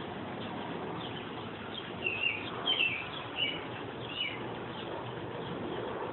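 Small songbirds chirping, a quick run of short high chirps about two to four seconds in, over a steady hush of outdoor background noise.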